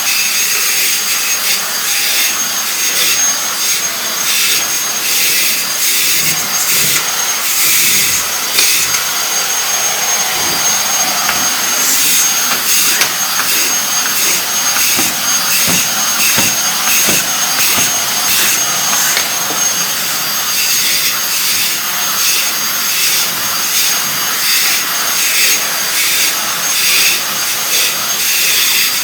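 Vacuum cleaner running steadily with a high motor whine, its suction sound flickering as the nozzle moves over surfaces.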